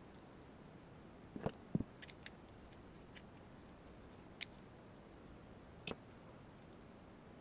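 Parts of an airsoft gas-blowback AR-15 being handled during assembly: two quick knocks about a second and a half in, then a few light clicks spread through the rest.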